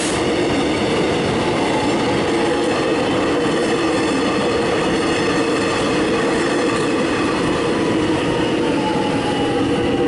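Two suburban electric trains passing each other, a steady rumble of wheels on rails and running gear throughout. A faint falling whine comes in near the end.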